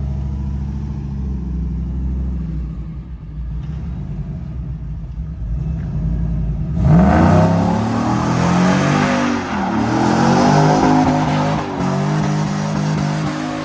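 Car engine with a big cam running with a low rumble. About seven seconds in, it is suddenly revved hard, its pitch climbing and falling again and again under a loud hiss, as in a burnout.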